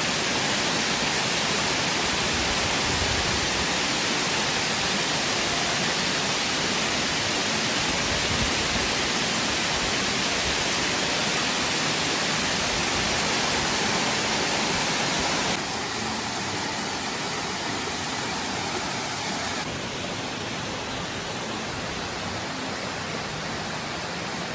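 Waterfall rushing: a steady, full roar of falling water. It drops suddenly in level twice in the later part.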